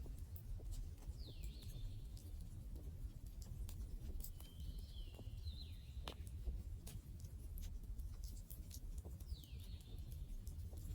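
Wood fire burning: irregular sharp crackles and pops over a low steady rumble. A few short high whistles fall in pitch, about a second in, twice around the middle, and again near the end.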